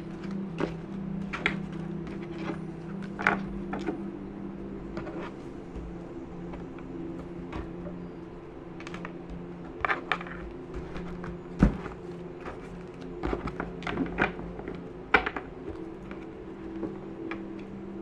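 A deck of tarot cards being shuffled by hand: scattered taps and slaps of the cards, with two sharper slaps about twelve and fifteen seconds in, over a steady low hum.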